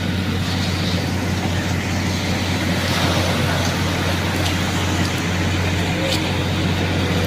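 An engine running steadily at constant speed as a low, even hum, with a rushing noise over it.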